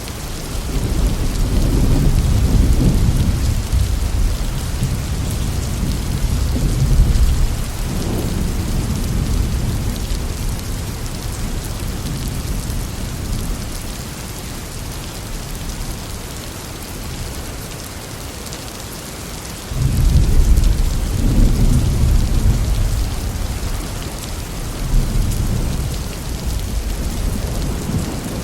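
Heavy rain falling steadily with rolling thunder: a long low rumble swelling in the opening seconds and fading away, then a second thunderclap breaking suddenly about two-thirds of the way through and rolling on.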